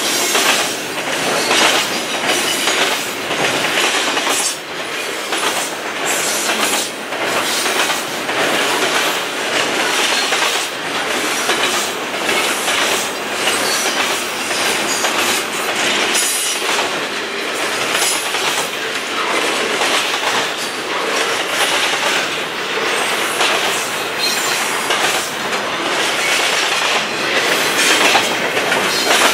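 Double-stack intermodal well cars of a long freight train rolling past: a steady clatter of steel wheels on the rails, with repeated clicks as wheel sets cross rail joints.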